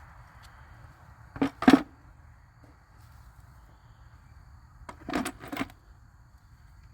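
A few short sharp knocks, two about a second and a half in and another group of three near five seconds.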